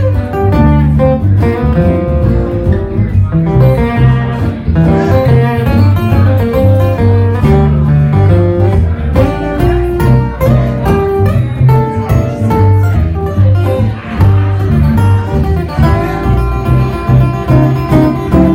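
Bluegrass string band playing live with no singing: quick picked guitar notes over a steady low bass line.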